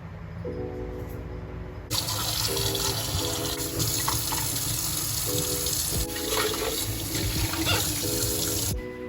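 Water running from a tap for about seven seconds, starting about two seconds in and cutting off shortly before the end, over background music.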